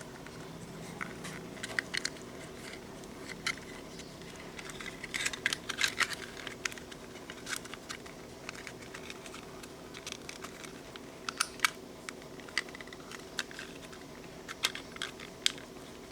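Small plastic clicks and taps from hands handling a C119 RC helicopter's body and parts while the receiver is fitted and fastened, coming in scattered bunches over a faint steady hum.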